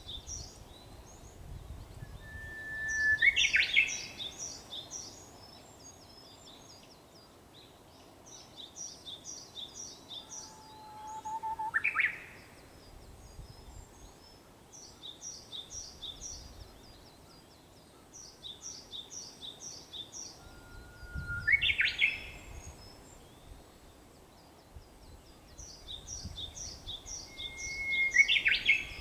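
Japanese bush warbler (uguisu) singing its 'hoo-hokekyo' song four times, each a long held whistle breaking into a quick rising flourish, about every eight or nine seconds. Between the songs, another bird gives bouts of rapid, high, repeated chirps.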